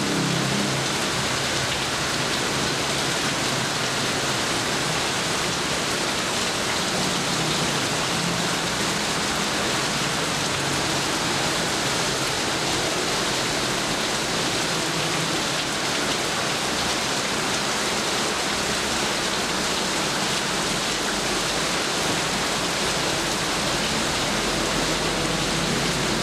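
Steady rainfall, an even, unbroken hiss of rain pouring down and striking surfaces.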